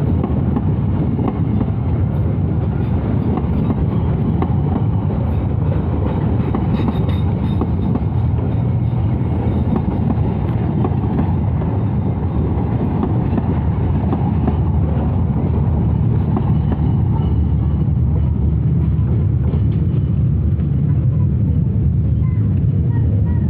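Walahar Ekspres passenger train rolling slowly into the station, with a steady low rumble of wheels on rails.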